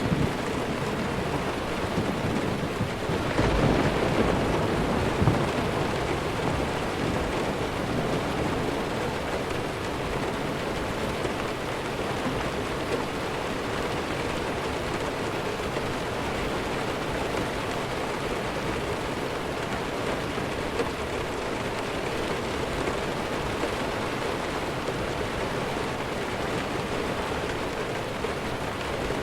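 Steady heavy rain, with a low rumble of distant thunder swelling about three to five seconds in and fading.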